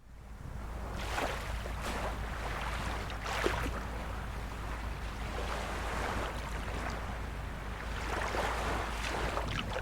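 Small waves of a calm sea lapping and splashing softly against the shore, in a string of short splashes over a steady wash, with a low rumble underneath. The sound fades in from silence at the start.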